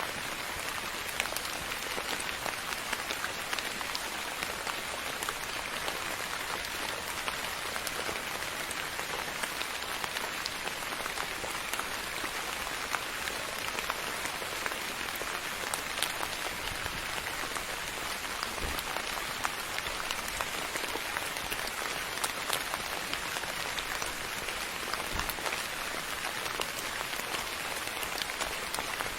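Steady soft rain falling, an even hiss dotted with many small drop ticks.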